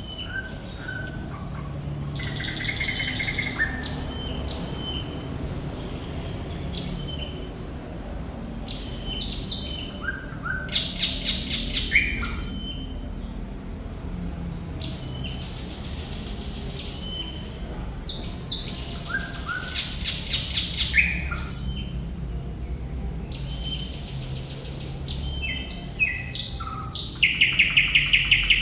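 Thrush nightingale singing in separate phrases of short whistles and clicks, with pauses between them. Several times the phrases build into a fast rattling run of about ten notes. A low rumble runs in the background.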